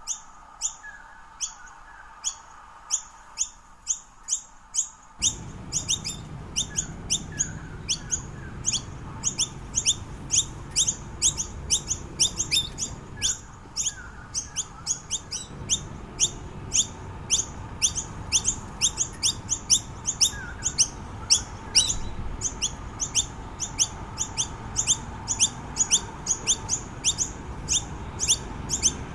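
Noisy miner calling: a fast, even run of short, sharp, high chirps, about two to three a second, kept up without a break. A steady low rumble of background noise comes in about five seconds in.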